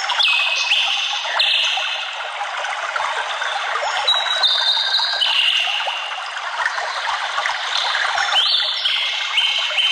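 A forest stream trickling and splashing steadily, with a songbird singing three short phrases of high notes that step downward in pitch, about four seconds apart.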